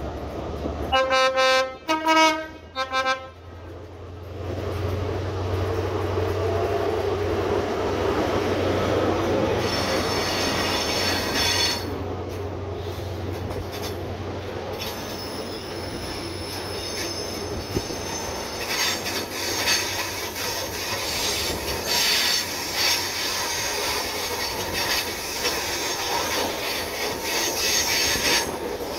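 A train horn gives a quick series of short blasts on two notes, high and low, about a second in. It is the loudest sound here. The train then rumbles through the station with a steady engine drone, and its wheels squeal high and thin on the curved track as it moves off.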